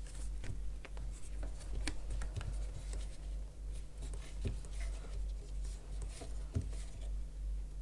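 Faint scattered clicks and scratchy rubbing of a crochet hook drawing yarn through as chain stitches are worked, over a steady low hum.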